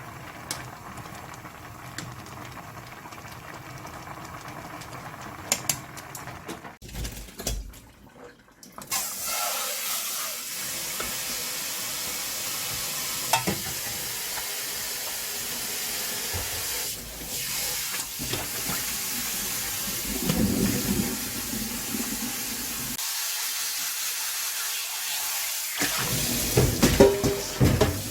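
Kitchen tap running hard into a sink, with a few short knocks.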